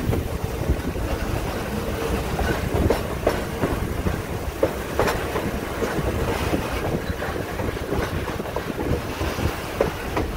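Passenger train rolling along the track, heard from a coach window: a steady rumble of steel wheels on rail, with a few irregular sharp clacks over the rail joints.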